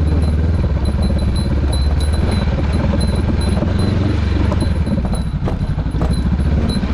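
Adventure motorcycle engine running steadily at low revs while riding, over a rough, even hiss of wind and ground noise.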